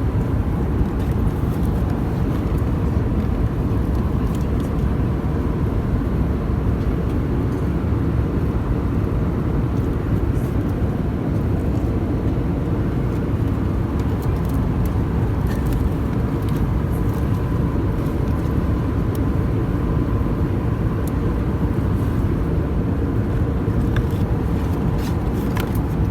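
Steady cabin noise of an airliner in flight: an even, low engine and airflow rumble with a faint steady tone on top.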